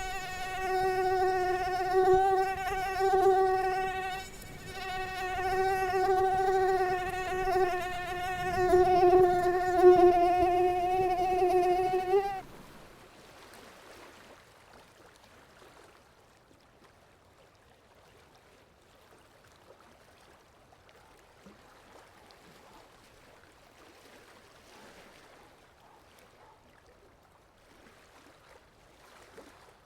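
Mosquito in flight: the high, steady whine of its wingbeat, with a short break about four seconds in. It stops abruptly about twelve seconds in, leaving only a faint hiss.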